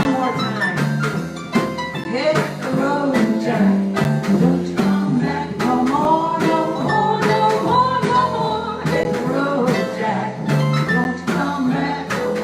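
Live music from a small harp-led jazz band playing a Brazilian-style jazz tune, with many plucked notes under a melody line.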